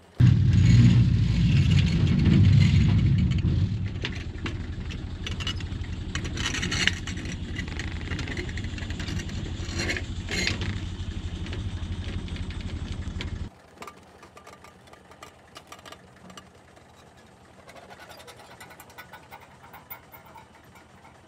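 Excavator engine running, starting suddenly at its loudest and settling to a steady run before cutting off abruptly about two-thirds of the way through; faint scattered clicks follow.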